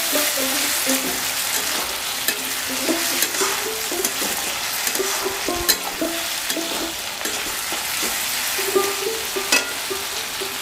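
Tomato, onion and ginger-paste masala sizzling as it fries in oil in a metal kadai, with a metal spatula stirring and scraping against the pan in scattered clicks and scrapes.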